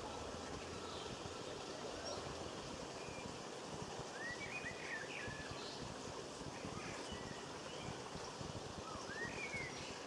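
Small garden birds giving short rising chirps, a little cluster about four seconds in and two more near the end, over a steady background hiss of outdoor noise.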